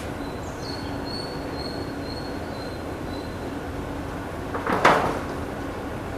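Outdoor background noise with thin, high whistled bird notes, and one brief, loud, harsh sound about five seconds in.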